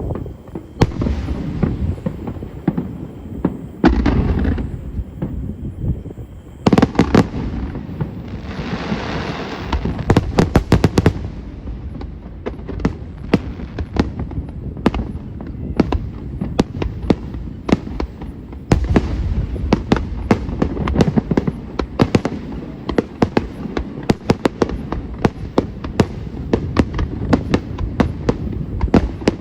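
Aerial fireworks shells bursting with deep booms, several big bursts in the first seconds, then a long run of rapid, dense crackling cracks.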